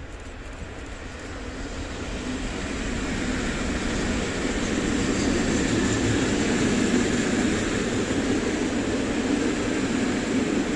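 Freight train passing close by: a PKP ET41 twin-section electric locomotive goes by, then a long line of open coal wagons rolls past with a steady noise of wheels on the rails. It grows louder over the first few seconds, then holds steady.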